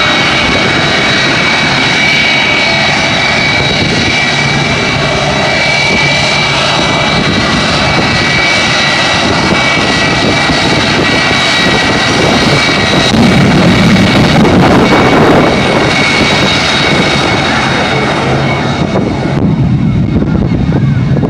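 Jet engine running loud and steady with a high whine, swelling about two thirds of the way through and easing off near the end.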